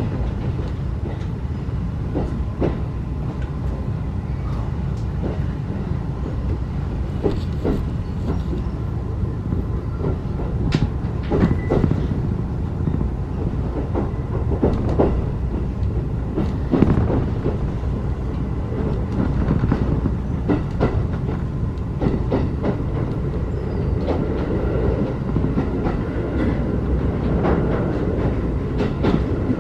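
Ride noise inside a 35-series passenger coach running along the line: a steady low rumble of wheels on rail, with scattered clicks and knocks.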